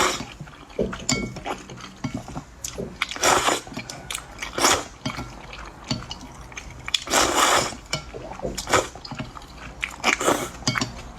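Close-miked eating sounds: chewing and biting, with several louder short noisy bursts over the few seconds.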